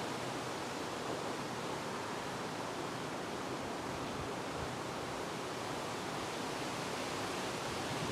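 Steady wind making an even, continuous rush, with a light rustle as of leaves.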